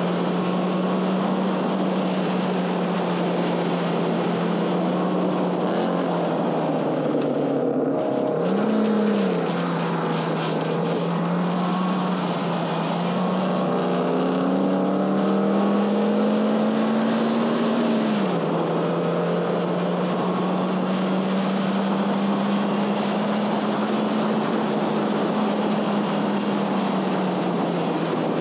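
A 2011 Honda Fit Sport's 1.5-litre four-cylinder engine is pulling hard at high revs over a steady rush of wind and tyre noise. The revs flare briefly about a third of the way in, then climb steadily for several seconds before dropping off sharply.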